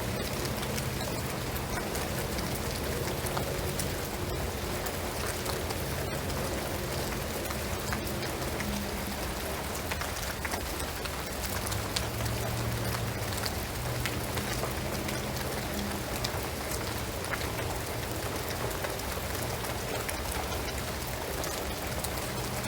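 Steady rain falling on a shingled roof and pine trees, an even hiss with many scattered individual drips.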